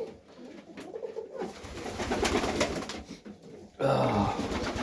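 Highflyer pigeons cooing in their loft.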